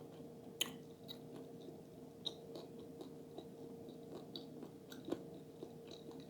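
A person chewing a mouthful of food close to the microphone: soft, faint wet mouth clicks and smacks, with a few sharper clicks scattered through.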